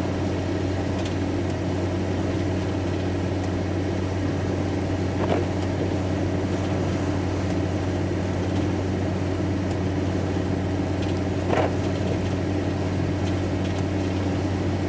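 Steady engine hum and road noise inside a van's cab while it drives along a wet motorway, with faint ticks about every two seconds.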